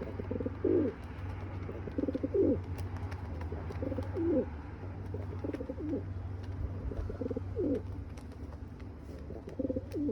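A bird calling over and over, six low pulsing calls, each ending in a falling slur, spaced about every one and a half to two seconds, over a steady low hum.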